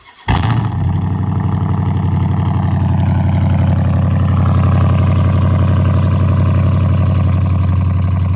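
Straight-piped Dodge Charger R/T V8 firing up on a cold start about a quarter second in, then idling loud and steady at a fast cold idle.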